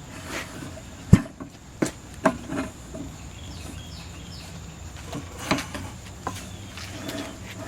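A series of irregular sharp knocks and thuds, the loudest about a second in: hand tools striking a tire and wheel while working to break the tire's bead loose.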